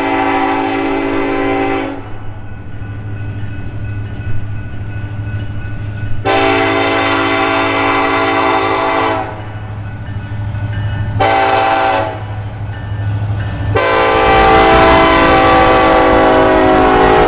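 Freight locomotive air horn sounding the grade-crossing signal: two long blasts, a short one, then a long one, over the steady low rumble of the passing train.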